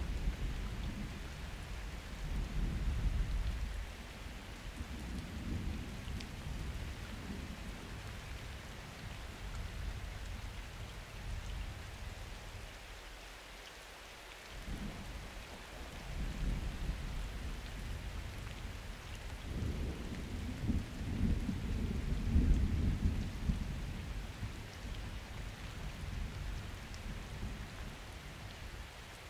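Steady rain falling during a summer thunderstorm, with rolling thunder: a rumble at the start that fades, a lull, then a longer, louder roll of thunder through the second half, loudest about three-quarters of the way in.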